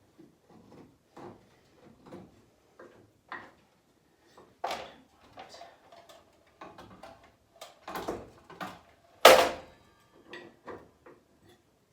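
Irregular knocks, taps and clunks of boards and tools being handled and set down at a woodworking saw. The loudest is a sharp clunk about nine seconds in.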